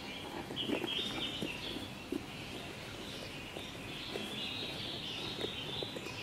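Outdoor ambience of small birds chirping continuously, with a few faint, soft knocks scattered through it.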